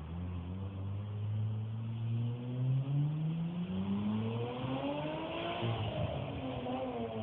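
1998 Mazda 626's 2.5-litre V6 exhaust through an N1 universal muffler. The revs climb steadily for about five seconds, then fall back near the end.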